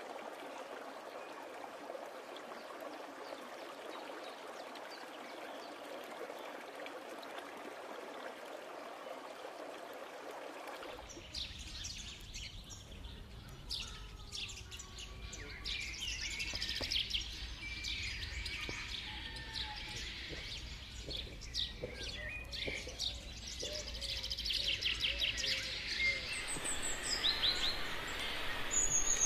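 A steady, even hiss of outdoor background noise, which changes abruptly about eleven seconds in to forest ambience full of many birds chirping and calling, with fast trills near the end.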